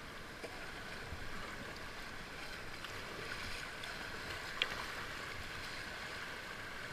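Steady rushing of river water, with one short sharp tap about four and a half seconds in.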